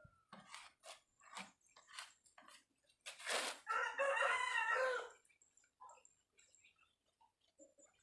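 A rooster crows once, a drawn-out call of about a second and a half starting roughly four seconds in. Before it come a series of sharp clicks and a short burst of noise.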